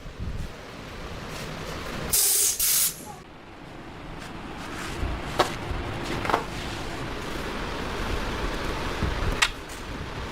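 Two short bursts of hissing compressed air about two seconds in, over a steady background noise, followed later by three sharp clicks.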